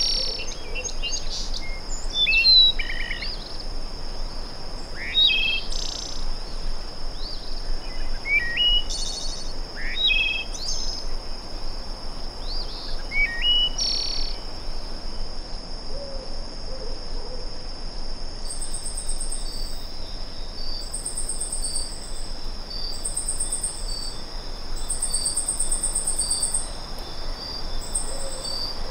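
Nature ambience: small birds chirping and calling in quick phrases through the first half, over a steady high insect drone. From about two-thirds in, a cricket-like insect trills in short bursts repeated about once a second.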